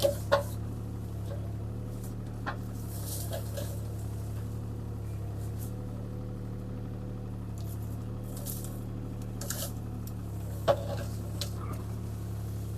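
CAT 303C CR mini excavator's diesel engine running steadily, heard from the cab, with a few sharp knocks, the loudest near the end.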